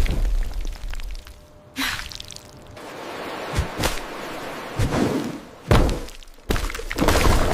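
Computer-generated ASMR food sound effects: a string of about five sharp knocks and thuds, each with a short swish, separated by softer rustling noise.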